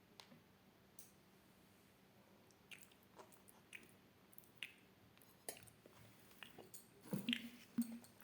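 A ringneck parakeet making soft, scattered clicks and taps, the kind of small sounds a bird makes picking and nibbling. The clicks come more often as it goes on, and two louder short sounds come near the end.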